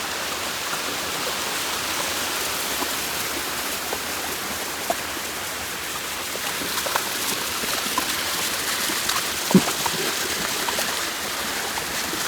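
Waterfall: a steady rush of falling water, with a brief low knock about nine and a half seconds in.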